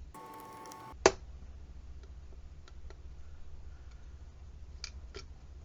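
A single sharp click about a second in, then a few faint light ticks, as metal parts or hand tools are handled.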